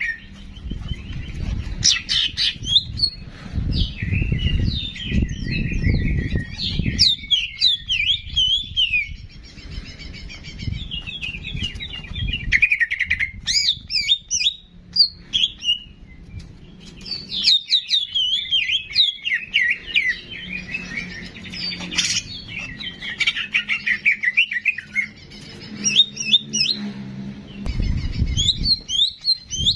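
A songbird singing fast, varied chirping and twittering phrases with short pauses between them. A low rumble runs under the song for the first several seconds and again near the end.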